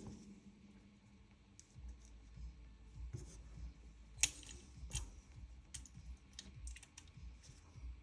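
Small metal and plastic gun parts being handled and fitted by hand: scattered light clicks and taps, the sharpest about four seconds in, over low handling rumble.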